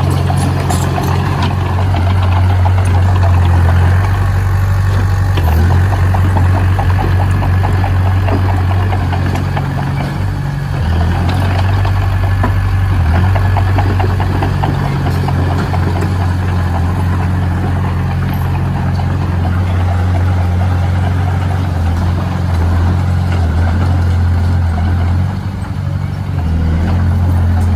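Heavy diesel engine of a construction machine running steadily at a low, even pitch, with brief dips about ten seconds in and again near the end.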